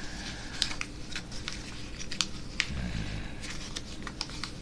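A sheet of paper being folded and creased by hand, with irregular sharp crinkles and rustles.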